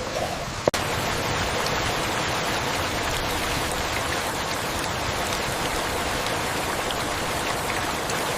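Steady rain falling, an even hiss of drops with no thunder. There is one sharp click less than a second in.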